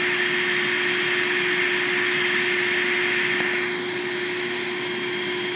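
Steady machine noise with a constant low hum under it, the whole sound dropping a little in level about three and a half seconds in.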